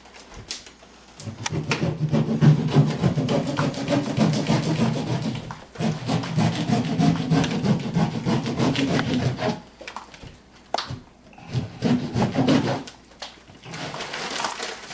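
A hand saw cutting through water-damaged ceiling drywall, in quick rasping strokes. It saws in one long spell with a brief pause in the middle, then in two shorter spells near the end.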